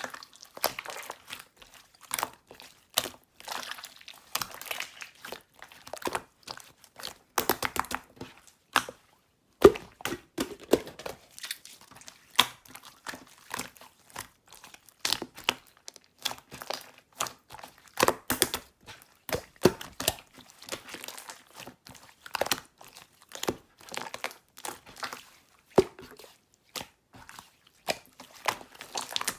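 Marbled slime being squeezed, pressed and stretched by hand, giving irregular crackling clicks and pops, with a brief pause about nine seconds in.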